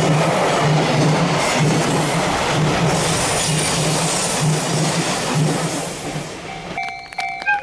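Container freight wagons rolling past on the rails, a steady loud rumble and clatter with a low thump about once a second, fading as the last wagon goes by about six seconds in. Near the end a Japanese level-crossing alarm starts ringing, about two dings a second.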